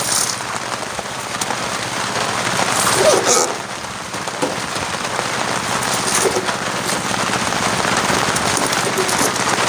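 Steady rain falling: an even hiss with fine crackle.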